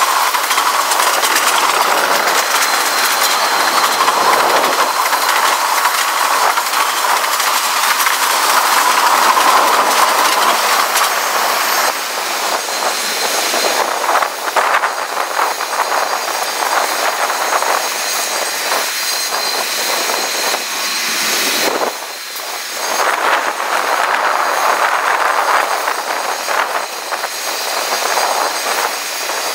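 Freight train tank cars rolling past close by: steady noise of steel wheels running over the rails.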